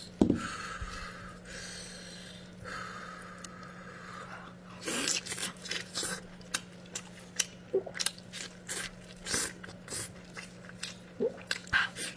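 Close-miked eating: a knock right at the start, then from about five seconds in a quick run of wet chewing and smacking mouth sounds. A faint steady hum runs underneath.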